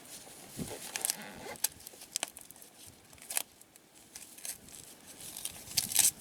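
Wrapping paper being torn and crumpled as a present is unwrapped, in irregular rustling, crackling tears with a louder rip just before the end.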